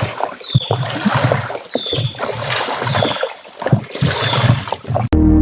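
Water splashing in uneven strokes, about one or two a second, with a bird's short high falling call repeating over it. Organ music cuts in abruptly near the end.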